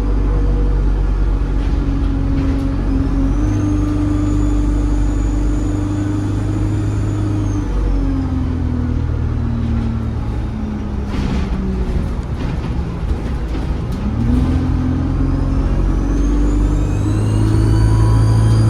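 ADL Enviro 200 bus's diesel engine pulling, heard from inside the bus, with a loud high turbo whistle. The whistle rises, holds and fades as the engine eases off about eight seconds in. It climbs again, higher, as the bus accelerates near the end, with a few rattles in between.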